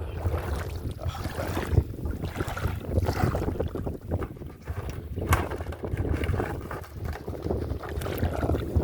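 Wind buffeting the microphone as a steady low rumble, over irregular rustling and sloshing noise with a couple of sharp knocks.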